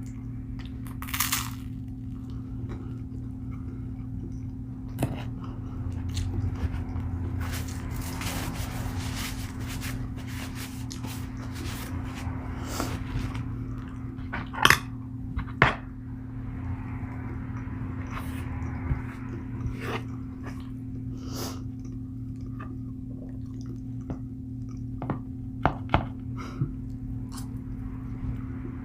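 Close-miked eating sounds: chewing and mouth noises with scattered sharp clicks and taps, the loudest a few in pairs around the middle and near the end, over a steady low hum.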